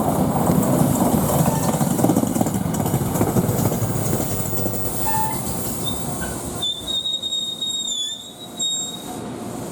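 NJ Transit train rolling through on the rails, its rumble fading, then steel wheels squealing on the curve in one high, steady squeal of about two seconds, with a few short squeaks just before it.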